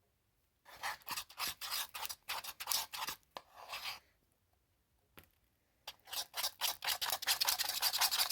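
Clear-glue slime being stirred in a container with a metallic activator, the stirrer scraping and rubbing against the container in quick rasping strokes. The strokes stop for a couple of seconds in the middle, then resume faster. The mix is still sticky and not yet fully activated.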